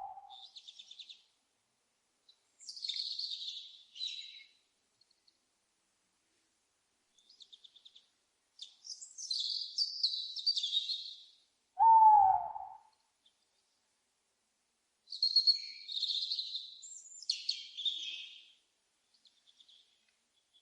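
A single owl hoot, one loud call that slurs downward in pitch for about a second, comes about twelve seconds in. Around it, small birds give high-pitched chirps and quick chattering phrases in short bouts.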